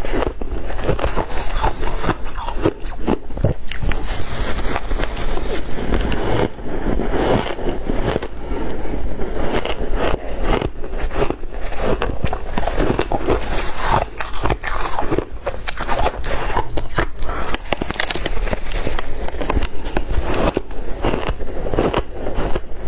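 Close-miked crunching of white ice being bitten and chewed: a dense, irregular run of crisp crunches and cracks.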